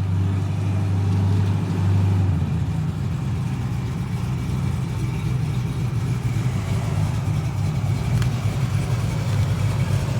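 The truck's engine running with a steady low rumble, its tone shifting and filling out slightly about two and a half seconds in.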